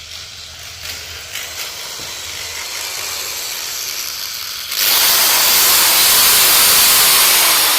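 A hiss with no pitch that builds slowly, then about five seconds in jumps suddenly to a loud, full hiss that holds steady. It is a sound effect in a binaural horror audio drama.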